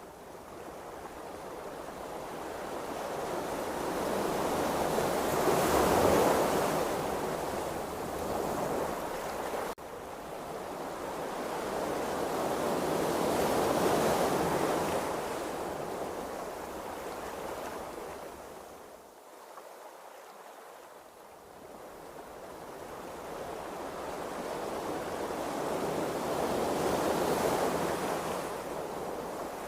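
Ocean waves: a slow wash of water that swells and fades three times, with no other sound.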